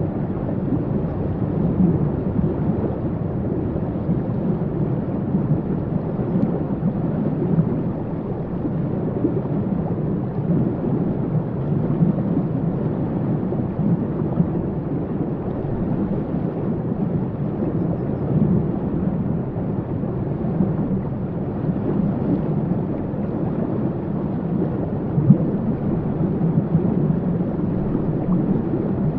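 Waterfall: a steady, deep rush of falling water, unbroken and even throughout.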